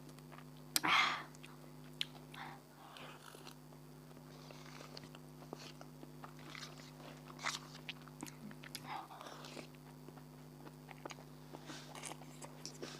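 Close-miked eating: biting and chewing with small wet mouth clicks, and a louder noisy smacking burst about a second in. A faint steady hum runs underneath.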